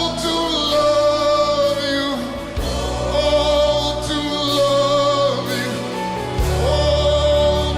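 Gospel worship music: voices holding long notes over sustained chords, with the chord changing about two and a half seconds in and again near the end.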